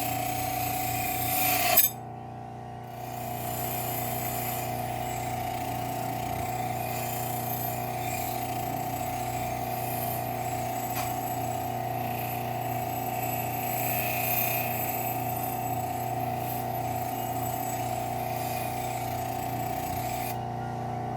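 Bench grinder running a Scotch-Brite wheel, with a rusty knife blade held against it to buff off the rust: a steady motor hum under a rubbing hiss. It rises to a peak and cuts off about two seconds in, then starts again a second later and runs on steadily.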